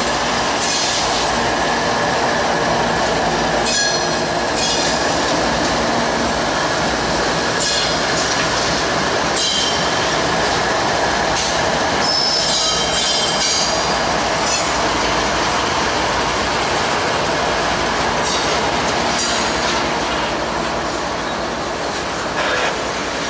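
BNSF freight train passing at speed: the diesel locomotives run by first, then double-stack intermodal well cars roll past with the clatter of wheels on rail. Short high-pitched wheel squeals come and go several times.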